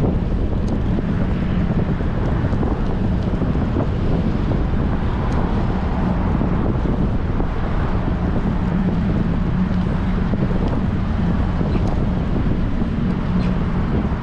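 Wind buffeting a bicycle-mounted action camera's microphone while riding into a strong wind: a steady, loud, low rush with a faint steady drone under it.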